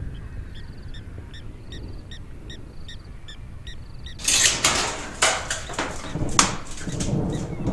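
Outdoor ambience of short bird chirps repeating about three times a second over low wind rumble. From about four seconds in, a loud burst of rustling and crackling noise with several sharp cracks takes over.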